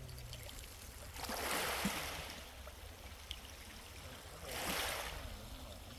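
Small sea waves washing in on the shore: two swells of hissing wash about three seconds apart.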